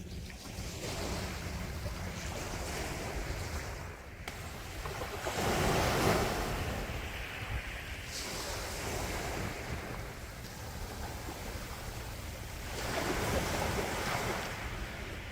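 Sea waves washing ashore over a steady low rumble, with two larger surges, one about six seconds in and one near the end.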